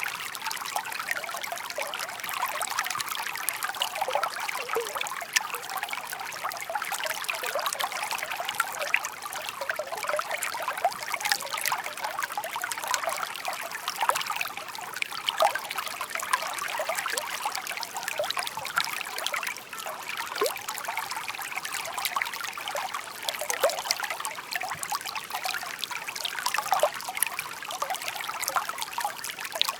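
Shallow babbling stream trickling steadily over stones, with many small splashes and plinks scattered through the flow.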